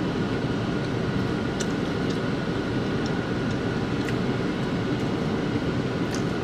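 Steady hum of a car's engine and ventilation fan running, heard inside the cabin, with a few faint clicks from people eating with plastic forks and sauce cups.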